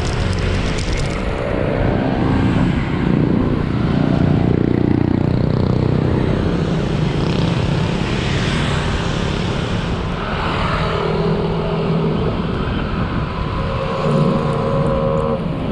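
Road traffic: motor vehicle engines running and passing, over a steady rushing noise.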